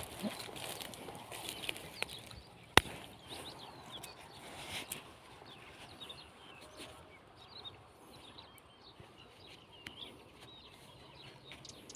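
Small birds chirping outdoors, with a single sharp click about three seconds in and a few fainter clicks later.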